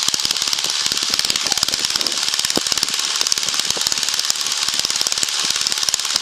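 Light airplane's piston engine running steadily at run-up power, a fast, even train of firing pulses, during the pre-flight magneto check; the instructor takes its roughness on one magneto for a fouled spark plug.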